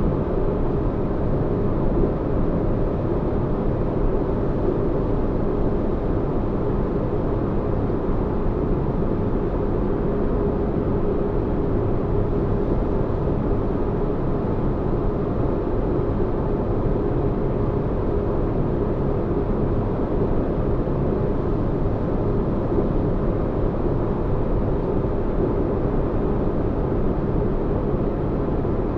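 Sci-fi spaceship interior ambience: a steady, deep-bass rumble with a faint constant hum on top. It does not change in level.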